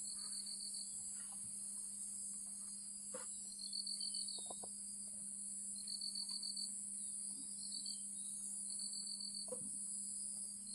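Crickets chirping in short pulsed trills every second or two over a steady high insect drone.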